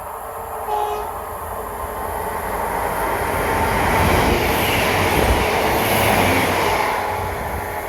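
A train passing at speed: a rushing rumble of wheels on rail that builds to a peak in the middle and then fades.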